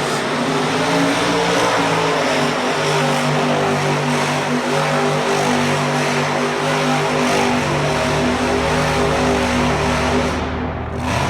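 Monster truck engine running loud and steady, its pitch shifting up and down, with a deep low drone building about halfway through.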